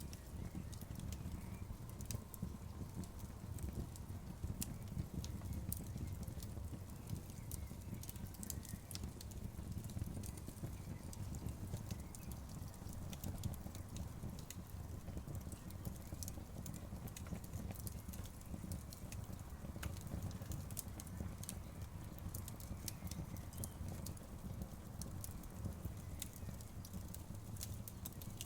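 Outdoor bonfire crackling: frequent sharp snaps and pops scattered over a low, steady rumble of burning.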